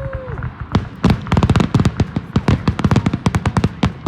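Fireworks: a whistling tone dies away about half a second in, then a rapid, dense volley of sharp bangs and crackles, several a second.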